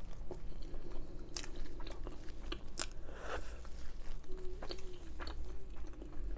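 Close-miked chewing of a mouthful of garlic naan topped with paneer tikka masala and rice, with irregular wet mouth clicks and soft bites.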